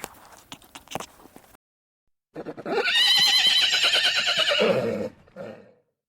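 Horse whinnying: one long quavering call of about three seconds that falls in pitch at the end, followed by a brief lower sound. Before it come faint clicks and rustling, then a moment of silence.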